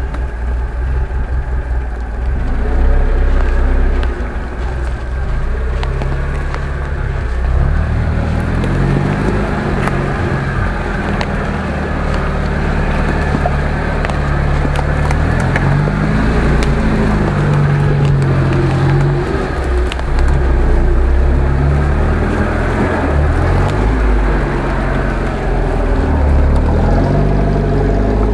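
UAZ-469 off-roader's engine working under load as it crawls through a muddy forest rut, the revs rising and falling several times, with one clear rise and fall about halfway through.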